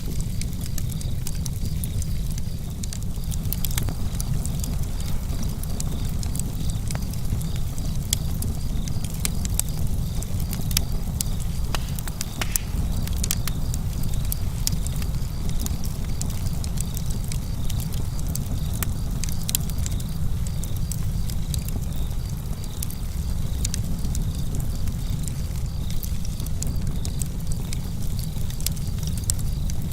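Campfire crackling, with many small, irregular pops and snaps over a steady low rumble.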